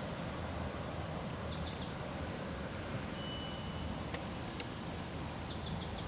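A small songbird singing twice, each song a high trill of quick downslurred notes that speed up and grow louder, about four seconds apart, over steady low background noise.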